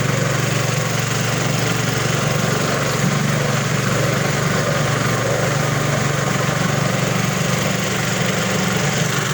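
Rabeta longtail boat motor running steadily at an easy, unstrained pace as the canoe climbs rapids, over the rush of the white water.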